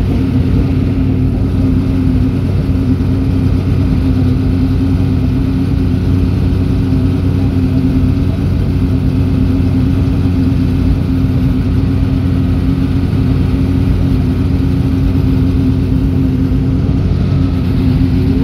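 Race car engine idling close by: a steady, even drone that holds at one pitch throughout.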